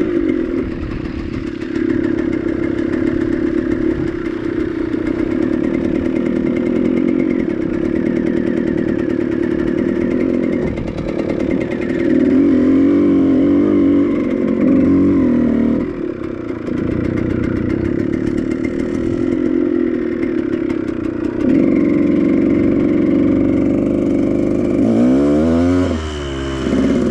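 Dirt bike engine running, its pitch and loudness changing as the throttle is worked, with a few quick revs up and down near the end.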